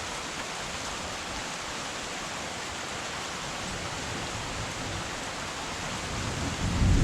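Heavy rain falling steadily, an even hiss. Near the end a low rumble of thunder starts to build.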